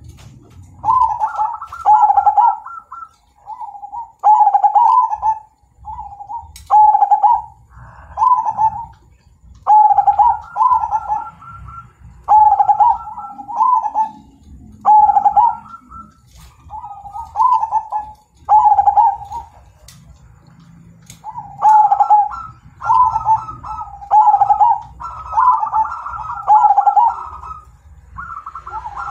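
Zebra dove (perkutut) cooing: loud, repeated rolling coo phrases, one every second or two.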